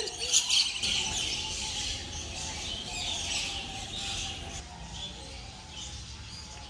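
Many small birds chirping and chattering together, loudest in the first second or so and growing fainter after.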